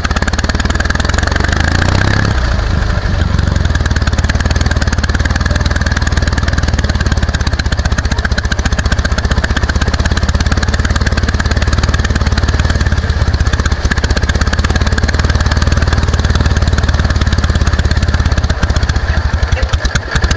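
Ural motorcycle's flat-twin engine running steadily under way, its note shifting lower about two seconds in.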